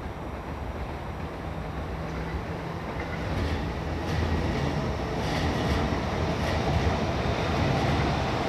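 JR 209 series electric commuter train approaching on the rails, its rumble growing louder from about three seconds in, with clicks over the rail joints and a steady whine in the second half.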